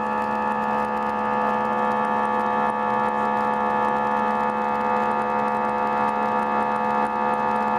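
Airbus A319 jet engines running at steady thrust: a constant drone with several unchanging whining tones over rushing noise.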